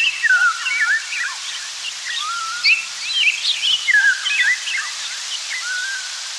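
Birds chirping: a busy run of short calls sliding up and down in pitch, several overlapping at once, over a steady hiss.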